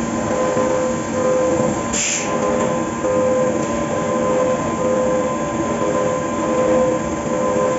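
5-axis CNC milling machine cutting a part: a steady machining noise with a tone that comes and goes about once a second as the tool works along its path. A short hiss sounds about two seconds in.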